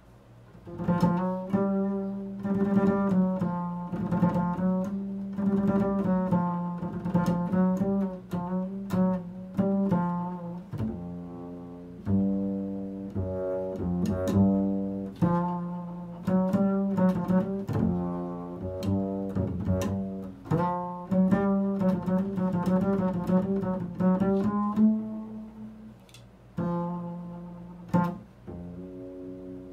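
Improvised solo music on a low string instrument: a stream of quickly picked notes with sharp attacks and short decays over a held low note, pausing briefly about a second into it and again near the end.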